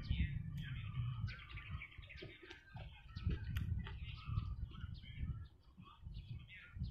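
Close chewing and wet mouth sounds of someone eating fried onions, egg and steamed bun, with bird chirps in the background.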